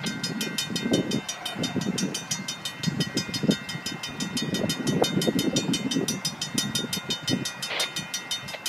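Metrolink commuter train approaching from a distance: an uneven low rumble, with a rapid, even high ticking of about six a second throughout.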